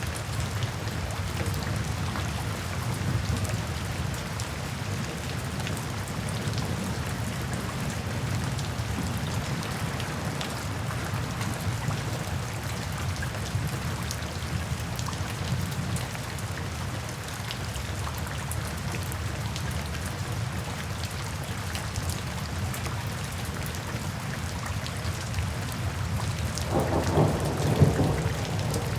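Steady rain falling, with a low rumble of thunder rising near the end.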